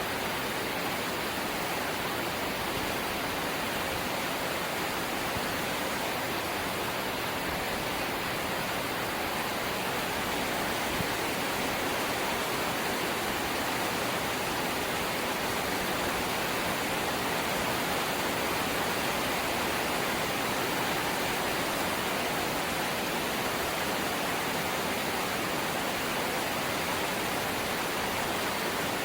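Steady heavy rain drumming on a corrugated zinc roof, a dense, even hiss that holds at one level.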